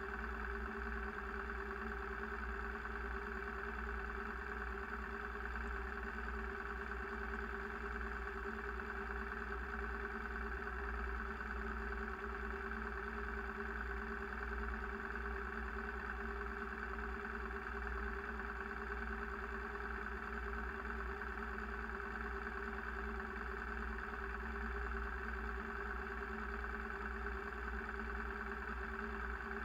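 A motorcycle engine idling steadily and evenly, with no revving or change in pitch.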